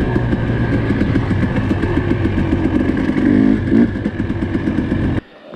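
Four-stroke dirt bike engine running under way, lugging along with a slight rise in revs a little past halfway, then cutting off suddenly about five seconds in.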